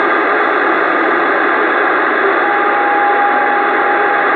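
CB radio receiver putting out loud, steady static as a station keys up an open carrier without talking; a steady whistle joins the hiss about two and a half seconds in.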